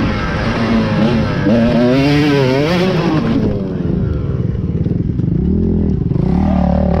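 Dirt bike engine revving, its pitch wavering up and down for about three seconds before falling away, then a lower, steadier engine note running near the end.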